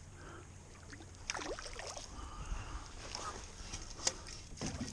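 Small splashes and knocks of gear against a kayak while a hooked redfish is worked toward a landing net, with one sharp knock about four seconds in.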